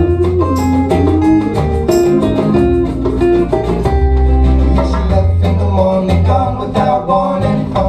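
Live acoustic band playing an instrumental break: strummed acoustic guitars over a steady beat.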